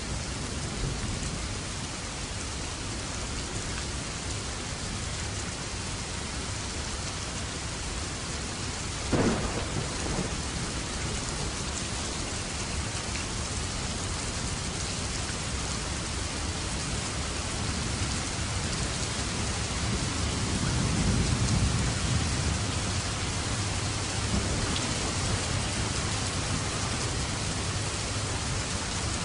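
Steady heavy rain, with a sharp crack of thunder about nine seconds in and a low rumble of thunder swelling and fading about two-thirds of the way through.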